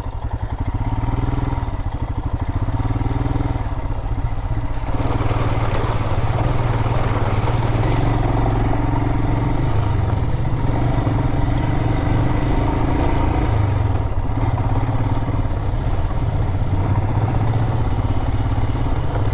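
Adventure motorcycle engine running steadily at low speed, with a louder hissing rush joining about five seconds in.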